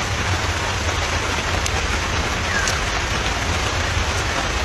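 Steady hiss of rain falling, with a low rumble underneath. A faint short chirp comes about two and a half seconds in.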